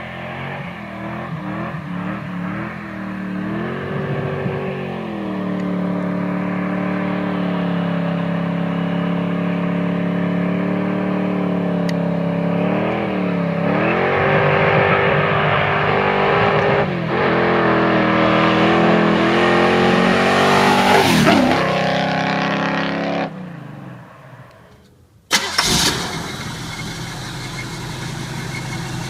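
A car engine running and being revved several times, climbing to a high rev about 21 seconds in before dropping away. After a short lull it comes back with a sudden loud burst and then runs steadily.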